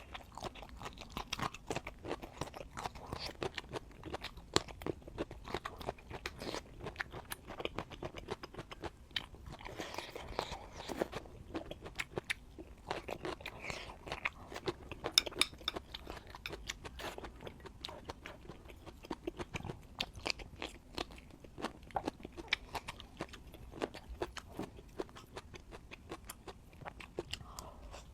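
Close-miked mukbang eating: continuous chewing of crunchy food, with dense sharp crunches and mouth clicks.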